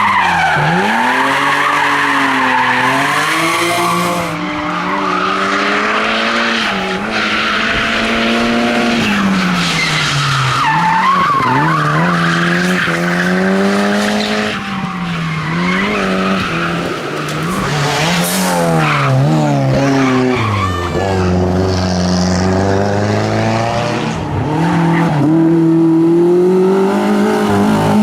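Hillclimb race car's engine revving hard, its pitch climbing and dropping over and over through gear changes and braking, with tyre squeal and skidding through the corners.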